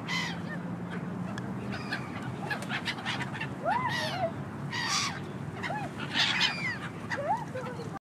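Birds calling: many short, overlapping calls that rise and fall in pitch, over a faint low hum. The sound stops abruptly near the end.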